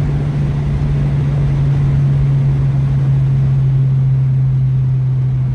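Turbocharged Honda Civic's four-cylinder engine droning at a steady pitch while cruising, over low road rumble, heard from inside the car.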